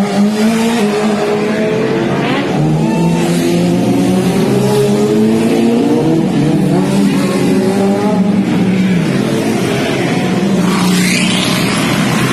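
Several sports car engines running and revving together, their pitches wavering up and down, with a rising whine near the end.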